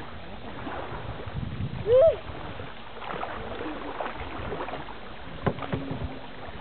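Kayak paddle dipping and splashing in the water, with scattered knocks of the paddle against the boat. About two seconds in, a short loud call rises and falls in pitch, the loudest sound here.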